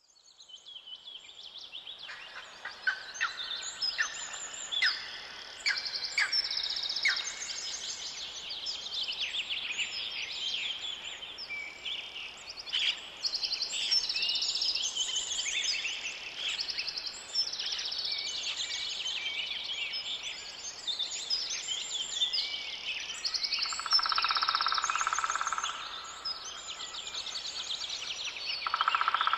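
Several songbirds singing and calling over one another, a dense mix of chirps, trills and whistles that fades in over the first couple of seconds. Near the end a steady, lower-pitched tone sounds for about two seconds, twice.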